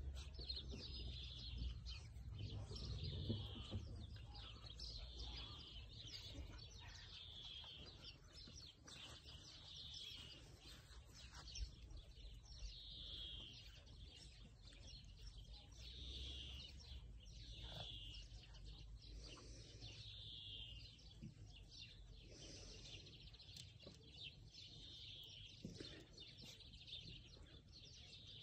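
A small songbird singing the same short chirping phrase over and over, roughly every second or two.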